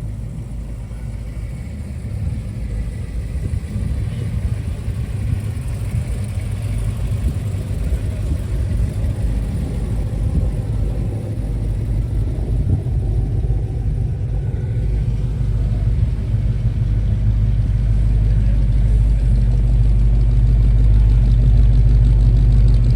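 A vehicle engine running at idle, a steady low rumble that grows gradually louder.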